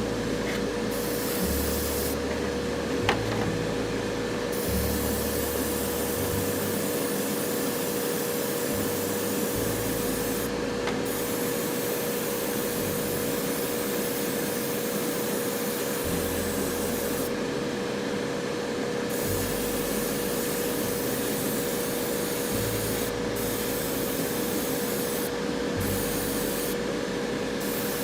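Ultrasonic cleaner running: a steady hiss with a constant hum. A single sharp click sounds about three seconds in.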